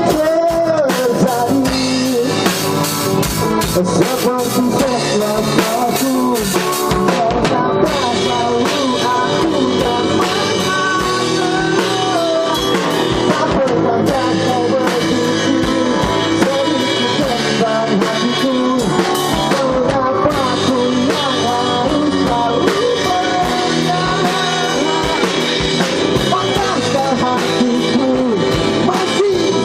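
A live band playing a pop-rock song, with a lead singer over guitar and a drum kit, loud and steady throughout.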